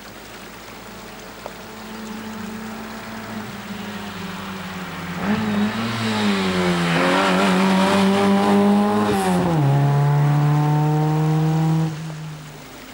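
Rally car engine at full throttle as the car approaches and passes, its note climbing and growing louder, dropping with an upshift about ten seconds in, then pulling on until it cuts off suddenly near the end.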